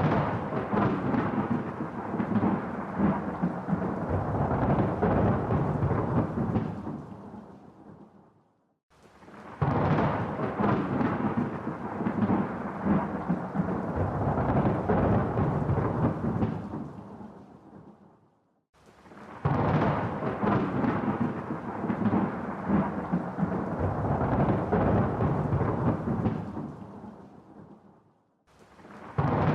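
Rolling thunder in three long rumbles, each starting suddenly and fading away over a couple of seconds, with about a second of near silence between them.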